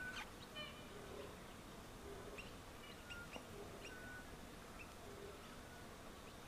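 Faint scattered bird calls: short chirps and brief whistled notes, several in the first four seconds, over quiet bush ambience.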